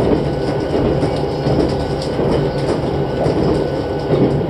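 Running noise heard inside the cabin of a Tobu 6050 series electric train under way: a steady rumble of the wheels on the rails with faint clicks.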